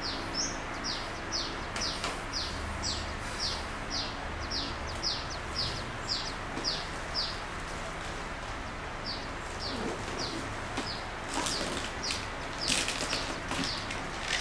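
A bird calling over and over, a short high chirp falling in pitch about twice a second, with a short pause past the middle. Near the end, the rustle and crinkle of the plastic-wrapped parcel being handled.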